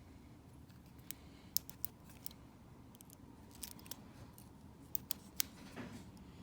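Small metal lock parts and tools clicking and tapping as a pin tumbler cabinet lock is taken apart and repinned by hand. About a dozen sharp clicks come at irregular intervals.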